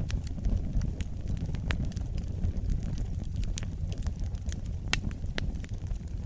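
Wood fire in a fireplace crackling, with irregular sharp pops over a steady low rumble of the flames; the loudest pops come about two seconds in and again near five seconds.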